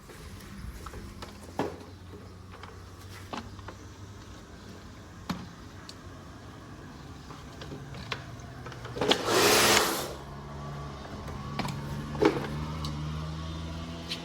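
A motor running steadily, with scattered clicks and a loud burst of hiss about nine seconds in that lasts about a second.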